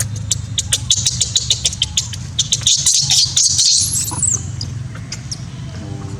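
Baby monkey giving a fast run of short, shrill squeaks, the angry sound of an upset infant, growing denser and louder about halfway through and ending in a falling squeal. A steady low hum runs underneath.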